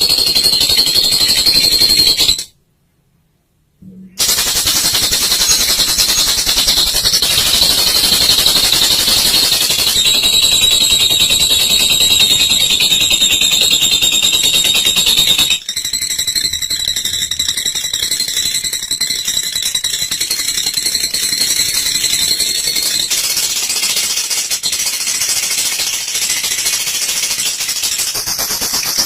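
Olive lovebird's long ngekek: a fast, continuous chattering trill of sharp notes with a high whistling tone over it. It breaks off for nearly two seconds a couple of seconds in, then resumes, and changes abruptly about halfway through.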